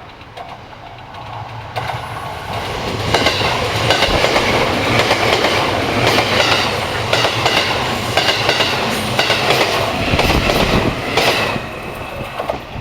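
Train passing close by: its noise builds about two seconds in, then its wheels clatter in repeated clicks over the rail joints for several seconds before easing near the end.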